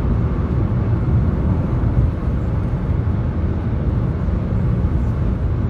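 Steady road and engine noise inside a car's cabin at highway speed, heaviest in the low rumble.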